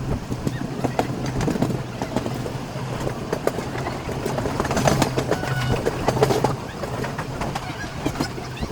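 Passenger train running along the track: wheels knocking and clattering irregularly over the rails over a steady rumble, with a low steady hum through the first half.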